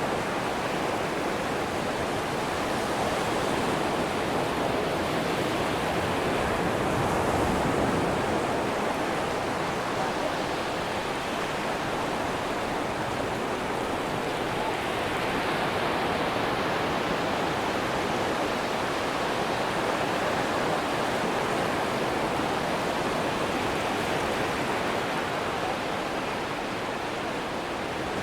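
Ocean surf breaking on a beach: a continuous wash of waves that swells gently and eases off, with no single crash standing out.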